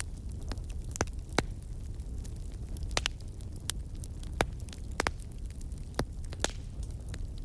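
Wood fire crackling in a fireplace: sharp pops and snaps every second or so over a steady low rumble.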